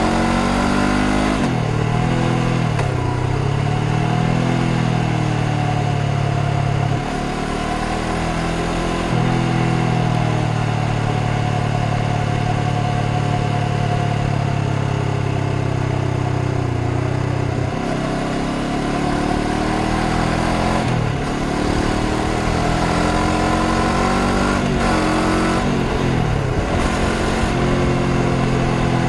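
2025 Honda CBR500R's 471 cc parallel-twin engine under way, its pitch rising and falling as the rider rolls the throttle on and off and shifts gears. There is a break in the sound at about seven seconds and a steady cruise for several seconds in the middle, followed by more throttle changes and rising pulls near the end.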